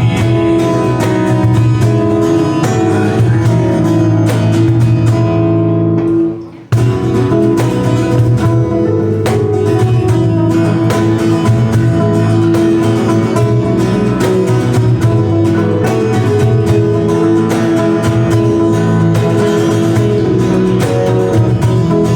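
Acoustic guitar music, plucked and strummed, with no singing. About six seconds in it fades out briefly, then comes back abruptly.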